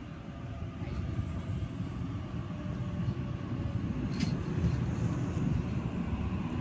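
Sydney Trains electric passenger train running through the platform, a low rumble that grows slowly louder. A brief high squeal comes about a second in, and a sharp click about four seconds in.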